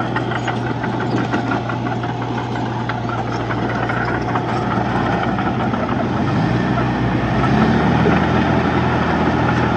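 Diesel engine of a Komatsu D31-P crawler bulldozer running under work, with a fast clatter in the first few seconds; about six seconds in the engine note changes and grows a little louder.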